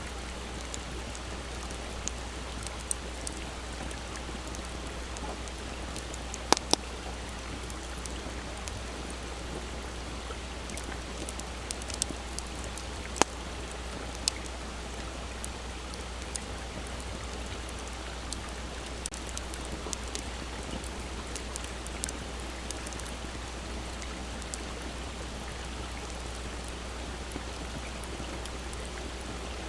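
Wood campfire crackling, with scattered sharp pops over the steady rush of a shallow flowing stream. The loudest pops come about six and thirteen seconds in.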